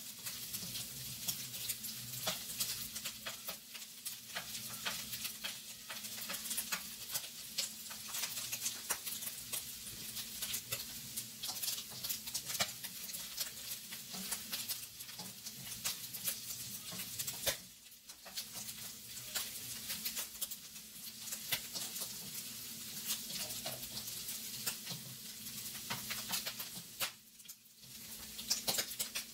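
Diced meat sizzling and crackling in hot oil in a nonstick wok while a plastic spatula stirs and scrapes it. The sizzle drops off briefly twice.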